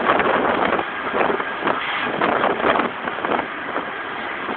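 Scania 113 truck on the road, its inline-six diesel running under a steady rush of wind and road noise, swelling a few times in the first three seconds.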